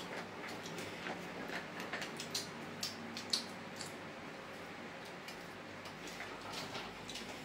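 Close-up chewing of crunchy fried insects: a run of sharp crackles and mouth clicks, densest in the first half and sparser later.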